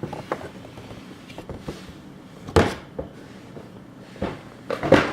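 Handling noise from a vinyl toy figure and its cardboard and plastic packaging: scattered small clicks and rustles, with two louder brief knocks, one about two and a half seconds in and one near the end.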